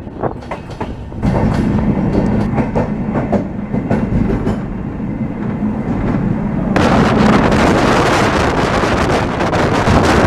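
Passenger train running on the rails, its wheels clicking over the rail joints under a steady low hum. About two-thirds of the way through, a loud rush of wind on the microphone at the open window comes in over the clicking.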